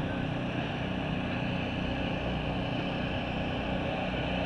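Steady low engine rumble of a motor running nearby, with an even background noise.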